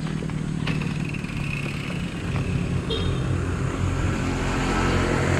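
A motor vehicle engine running steadily close by, growing a little louder toward the end.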